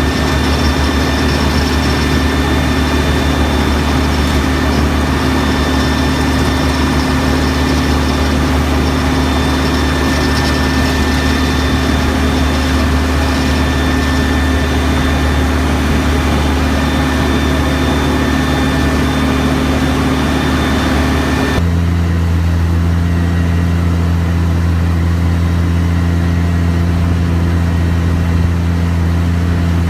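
Diesel engine running steadily at a constant speed. About two-thirds of the way in, its sound changes abruptly to a deeper, steadier hum with less hiss, and it holds there.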